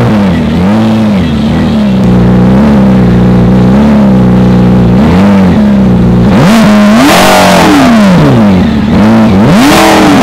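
McLaren P1's twin-turbocharged V8 idling while the car stands still, blipped again and again in short revs that rise and fall back to idle. About six seconds in, and again near the end, it is revved harder and the exhaust gets much louder and brighter.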